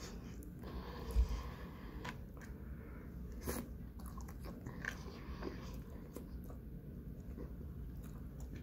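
Mouth sounds of eating soft, hot chicken enchilada, bites and chewing, with a few light clicks and a low thump about a second in.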